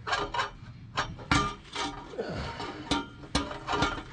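Steel exhaust pipe and V-band clamp clanking and clinking as they are handled and fitted: a string of sharp metal knocks, some ringing briefly, with a short rattle about halfway through.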